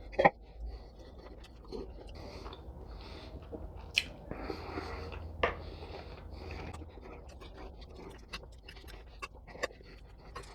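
A man chewing and eating food close to the microphone, with a few sharp clicks, the loudest about four and five and a half seconds in.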